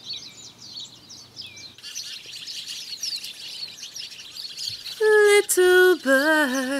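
A chorus of small birds chirping and twittering in quick, high calls. About five seconds in, a woman starts singing, her voice much louder than the birds.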